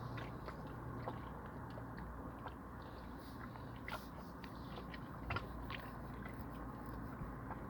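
Sea water washing on the shore: a steady wash with many scattered crackles and clicks, one sharper click a little past halfway.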